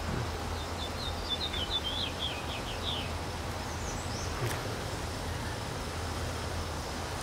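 A small bird singing a quick run of short high chirps for about two and a half seconds, then two brief higher calls around four seconds in, over a steady low rumble.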